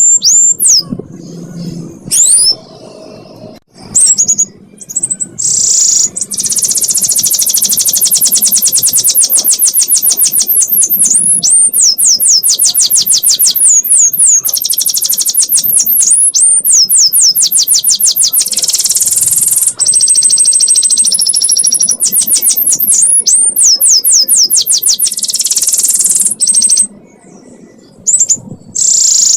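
Canary singing a long 'ngekek' song: fast runs of repeated high, quickly rising notes, kept up almost without a break for many seconds. It holds a brief steady whistle about two-thirds of the way through, with a few short pauses near the start and the end.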